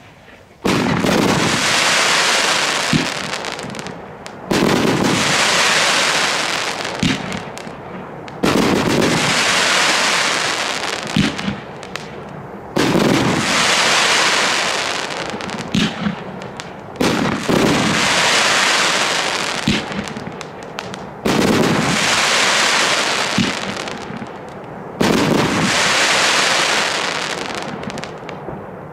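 Funke SFC49-F86 49-shot fan cake firing: launch thumps, then crackling palm bursts. Each burst is a dense crackle that starts sharply and dies away over a few seconds, about every four seconds, seven times over.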